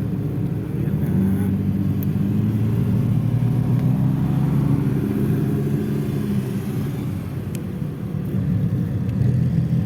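Lamborghini sports car engines running at low revs, a steady low rumble that eases slightly about seven seconds in and builds again near the end.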